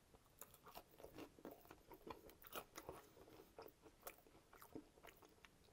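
Faint, close-miked chewing of a forkful of fries topped with coney sauce: a run of soft, wet mouth clicks and smacks.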